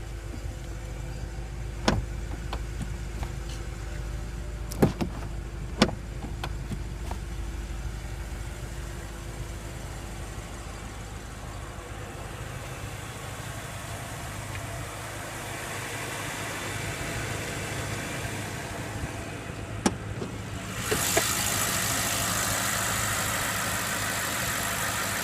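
The BMW M6 Gran Coupe's 4.4-litre twin-turbo V8 idling steadily, with four sharp clicks and knocks along the way. Near the end the sound turns suddenly louder and brighter, with a strong hiss over the low rumble.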